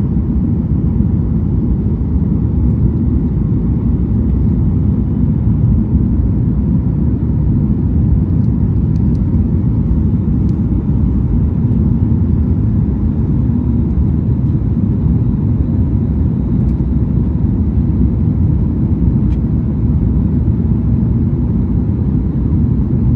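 Passenger airliner heard from inside the cabin during takeoff and climb: a steady, loud, deep rumble of engines and rushing air, with faint steady whining tones above it.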